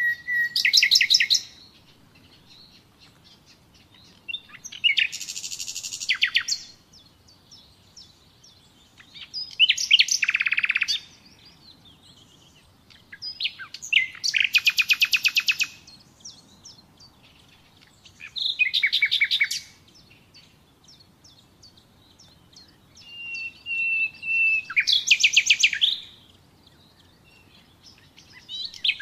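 Nightingale singing: short, varied phrases of rapidly repeated notes and whistles, each a second or two long, separated by pauses of a few seconds.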